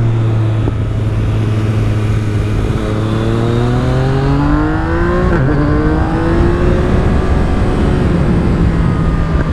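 Yamaha MT-09 (2017) three-cylinder engine through an Akrapovic carbon full exhaust system, with the dB killer fitted, pulling on the move. The engine note holds steady at first, then climbs, drops suddenly at an upshift a little past halfway, and rises again before levelling off.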